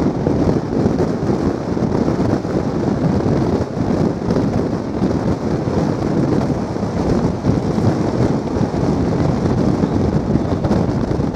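Passenger train running, heard from on board: a steady, loud rumble and rush of wheels on the track and wind, with no letup.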